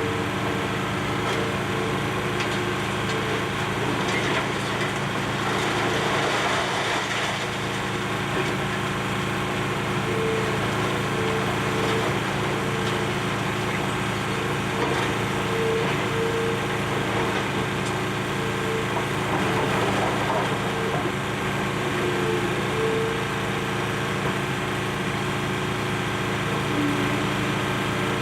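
Excavator's diesel engine running steadily under load while it tears into a building, with crunching and cracking of breaking debris, heaviest about four to eight seconds in.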